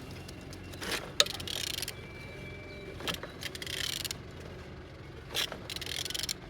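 Renault K9K 1.5 dCi four-cylinder diesel engine being turned over by hand: a series of clicks and knocks with short swishing hisses about every two seconds as the crankshaft is rotated. It turns freely, not seized.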